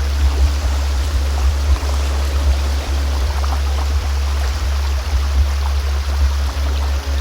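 Sound-healing music: a steady deep low hum under the sound of a flowing stream, with faint soft held notes.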